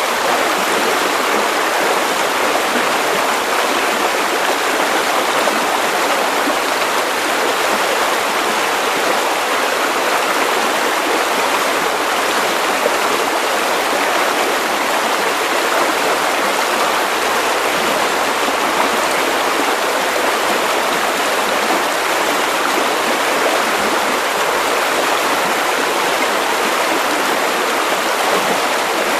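Steady white noise: an even, unchanging hiss, fullest in the middle and upper range with little deep bass.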